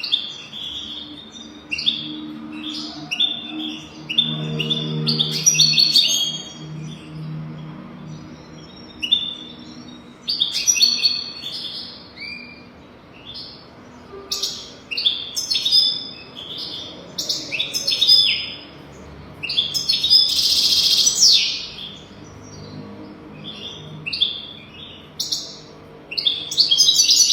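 European goldfinch singing: quick twittering phrases of high chirps and trills in bursts with short pauses between them, with a longer harsh, buzzy phrase about twenty seconds in.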